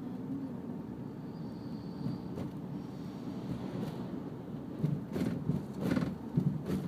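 Steady low rumble of a car driving, with a few knocks and bumps in the last two seconds.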